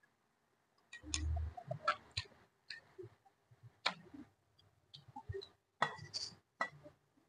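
Eating sounds: chewing and smacking a mouthful of cooked vegetables (pinakbet), heard as scattered sharp clicks and smacks, with a low thump about a second in.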